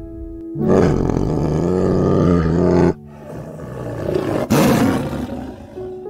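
Tiger roaring twice: a long, loud first call that cuts off suddenly, then a second that swells and fades, with a sharp click in the middle of it.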